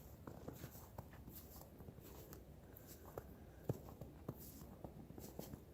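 Faint footsteps of a hiker on a snowy forest trail, with small irregular clicks and soft knocks over a low hiss.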